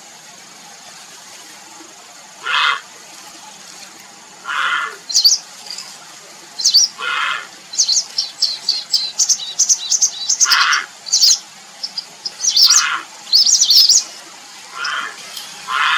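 Grey heron giving short harsh calls about every two seconds, which the title gives as calling for a mate. Rapid high-pitched chirps from another bird fill the middle stretch between the calls.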